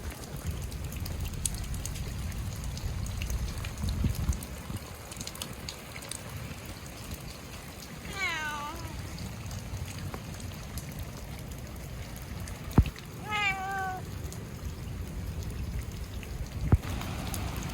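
A cat meowing twice, the first call sliding down in pitch and the second falling then holding, over a steady hiss of rain. Two sharp knocks, one just before the second meow and one near the end.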